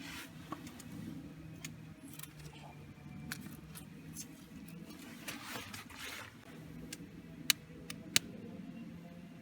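Firewood being handled and laid over fire starter: scattered light clicks and knocks of wood, a brief rustle about five and a half seconds in, and two loud sharp clicks near the end.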